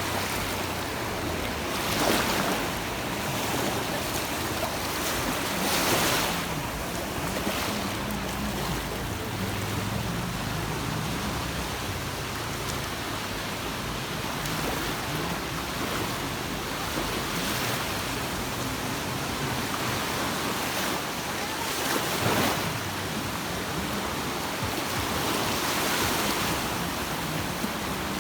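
Sea waves washing onto a beach: a steady hiss of surf, with a louder wave breaking four times.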